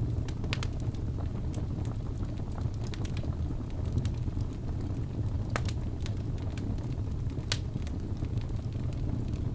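Wood fire burning in a fireplace: a steady low rumble of flames with irregular sharp crackles and pops of burning wood, the loudest about five and a half and seven and a half seconds in.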